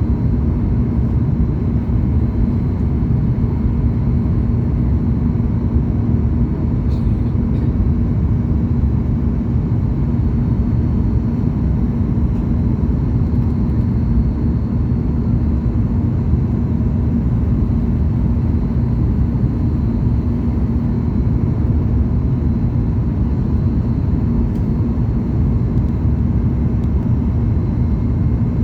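Steady cabin noise of a Boeing 737 MAX 8 in flight on descent: an even rush of airflow and engine noise, strongest in the low range, with a constant hum running through it.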